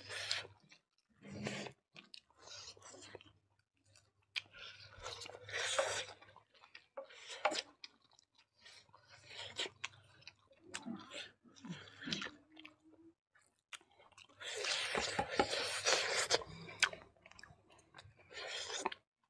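Close-up mouth sounds of people eating rice and chicken curry by hand: wet chewing and crunching in irregular bursts with short pauses between, loudest a few seconds before the end.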